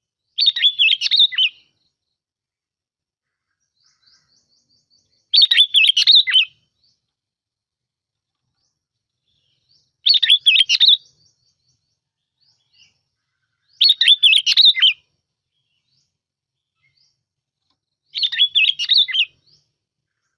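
Sooty-headed bulbul (bông lau) singing its short, bubbly song phrase five times, each about a second long, with pauses of three to four seconds between them.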